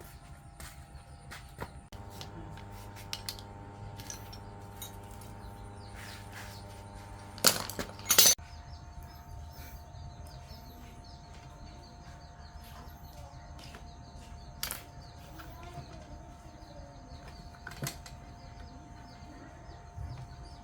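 A steady electric hum made of several even tones, which changes about two seconds in and again about eight seconds in. Scattered clicks run through it, with a loud clatter of knocks just before the second change.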